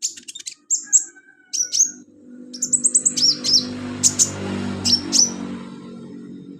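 Sunbird (a caged 'kolibri' or 'conin') singing in clusters of quick, high chirps and short downward-sweeping notes with brief gaps between them. A low hum comes up partway through and runs on under the song.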